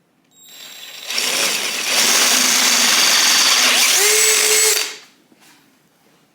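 Electric drill running for about four seconds, building up at the start and stopping fairly suddenly, as it drills the metal headlight bucket to mount the turn signals.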